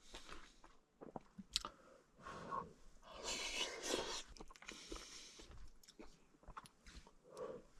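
A person eating curry with a spoon: close-up chewing with a few light clicks and scrapes, coming in irregular bursts.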